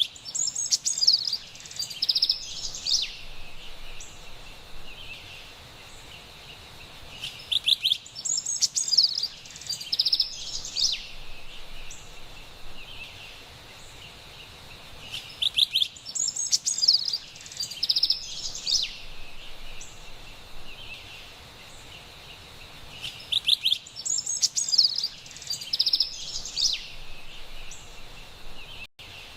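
Carolina wren singing: clusters of quick chirps, trills and whistled notes about three seconds long, repeating every eight seconds or so in the same pattern, over a faint steady background hiss.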